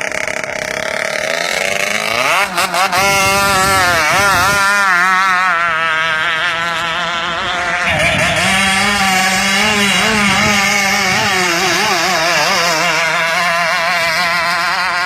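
KR two-stroke engine of a river racing boat being revved hard, its high buzzing pitch repeatedly rising and falling in quick waves, with a big climb a few seconds in and another run of revs about halfway through.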